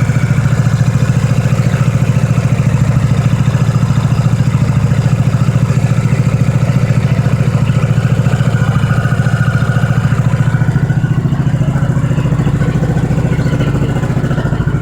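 Freshly rebuilt single-cylinder motorcycle engine, with new crankshaft, cylinder, piston and rings, idling steadily on its test run. It eases off slightly near the end.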